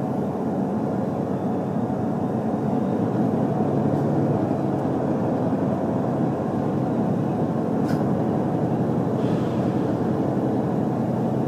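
Running noise of an HC85 hybrid diesel-electric train heard from inside the car: a steady low rumble of engine, motors and wheels on rail. A short click comes about eight seconds in.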